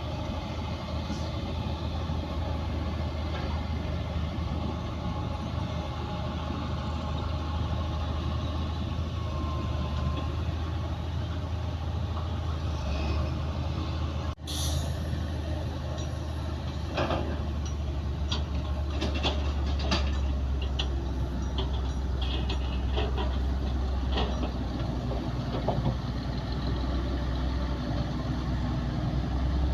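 Heavy diesel earthmoving machinery running with a steady low drone. The sound drops out briefly about halfway through, and in the second half there are repeated metallic clanks and knocks.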